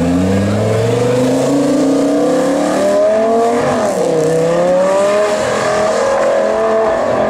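Lamborghini Gallardo V10 accelerating hard, its pitch rising steadily, dropping sharply at an upshift about four seconds in, then rising again in the next gear.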